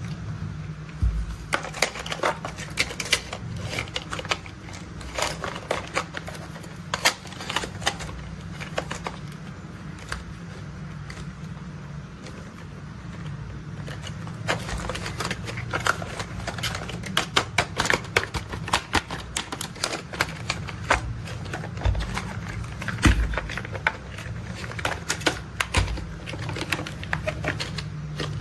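Rapid, irregular clicking and clacking of plastic toy construction vehicles being handled and their parts worked, over a steady low hum.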